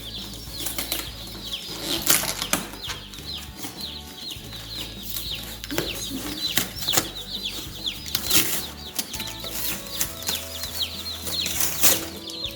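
A crowd of day-old Cornish cross broiler chicks peeping nonstop, many short, high, falling cheeps overlapping each other, with scattered knocks and rustles among them.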